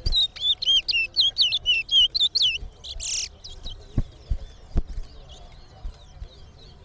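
Towa-towa (chestnut-bellied seed finch) singing in a song contest: a fast run of loud, quick rising-and-falling whistled notes for about two and a half seconds, a short harsh buzz around three seconds in, then softer scattered chirps. Two dull low thumps come near the end.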